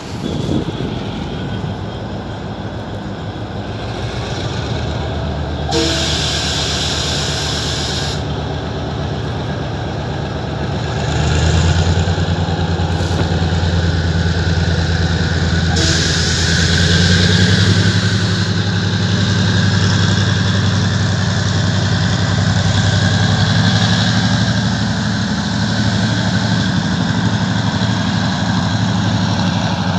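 Train engine running with a steady low drone that grows louder about eleven seconds in, as if taking load. Two short bursts of hissing come through, about six and sixteen seconds in.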